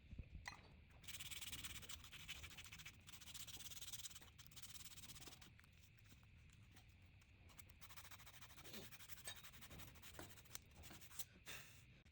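Faint rubbing strokes, a stretch of about three and a half seconds starting about a second in, then a shorter stretch, with a few light ticks near the end.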